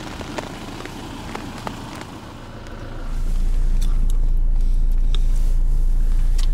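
A vehicle idling with scattered crackling clicks, then, about three seconds in, a louder steady low drone of an idling engine heard from inside the car's cabin. Over the drone come a few light clicks of a metal spoon.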